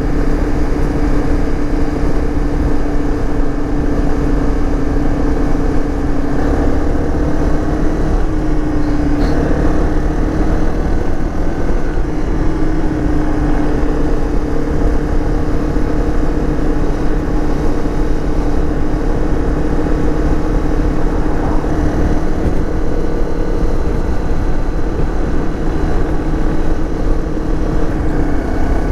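Dirt bike engine running at a steady cruising speed, its note holding nearly level with small throttle changes, under heavy wind buffeting on the microphone.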